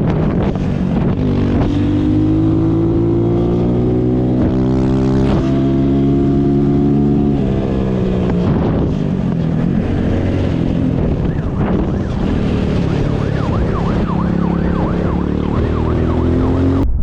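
Motorcycle engine accelerating hard, its pitch climbing steadily for several seconds, dropping sharply at a gear change about seven seconds in, then climbing again. A wailing siren comes in faintly in the second half.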